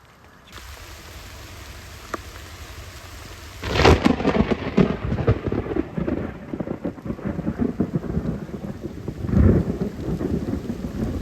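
Thunderstorm: steady rain falling, then a close thunderclap about four seconds in that cracks and rolls into a long rumble, swelling again near the end.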